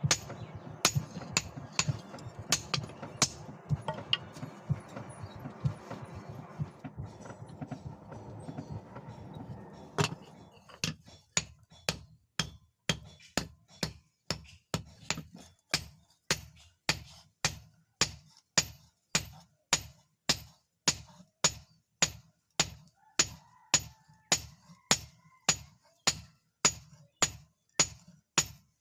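Forging hammer striking leaf-spring steel on an anvil in a steady rhythm of about two blows a second. A low rumble runs under the blows and stops about ten seconds in.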